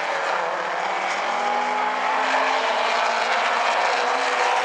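Late-model stock car engines running at racing speed around a short oval track, a steady blend of several cars at once with engine tones rising and falling.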